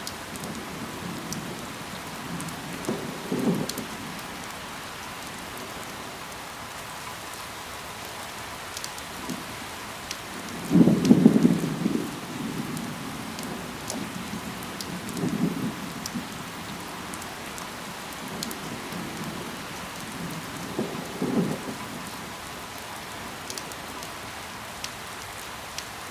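Steady rain falling on leaves, an even hiss with single drops ticking through it. Four short low rumbles rise out of it, the loudest about eleven seconds in.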